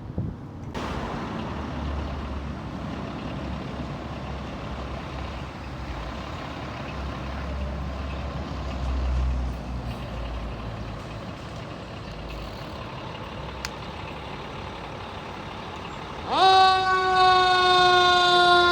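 Fire truck's engine and road noise rumbling as it approaches. About 16 s in, a loud multi-tone horn blast comes in with a quick upward sweep, then holds with its pitch slowly sagging.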